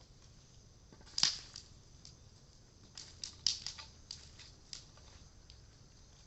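Cedar wood crackling as it burns in a bonfire: irregular sharp pops, the loudest about a second in and a quick run of them a few seconds later.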